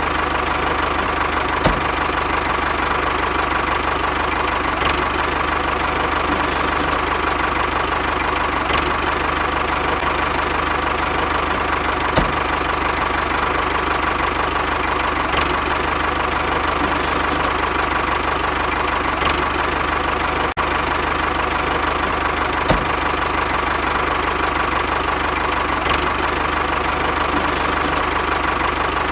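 DIY tractor's motor running steadily with a constant hum, and a sharp click every few seconds.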